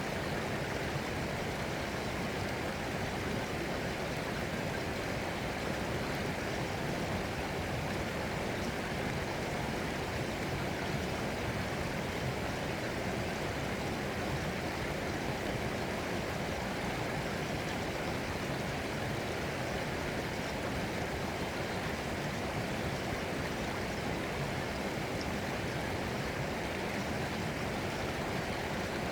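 Running water, an unbroken, even rush of flowing water with no distinct splashes or pauses.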